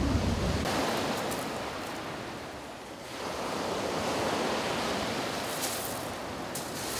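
Sea surf breaking and washing on a shingle beach: a steady rush that eases about three seconds in and swells again. Wind buffets the microphone in the first half-second.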